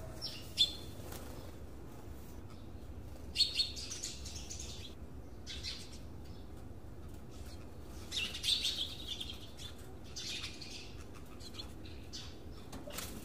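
Small birds chirping in short clusters of quick chirps every second or two, over a steady low rumble.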